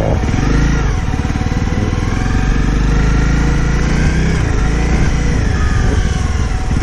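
Honda CRF250 Rally's single-cylinder engine running while the bike is ridden, its revs rising and falling several times.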